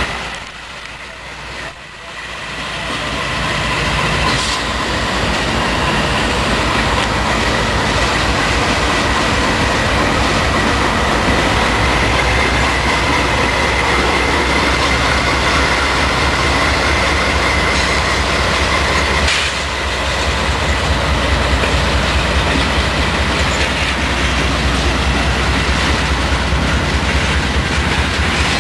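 CSX freight train passing close by: locomotive and freight cars rolling on the rails with a steady rumble and clatter of wheels. A faint steady high whine rides over it until about two-thirds of the way through.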